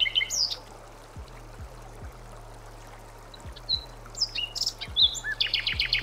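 Songbirds chirping: a few short high calls and a falling whistle at first, scattered chirps later, and a quick trill of about nine notes near the end, over a faint steady low drone.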